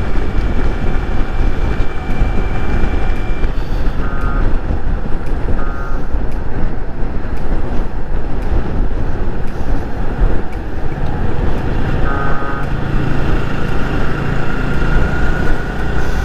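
Wind rush on the helmet microphone over the Yamaha R15 V3's single-cylinder engine running at highway speed, with three short horn beeps at about four, six and twelve seconds in. Near the end the engine note rises.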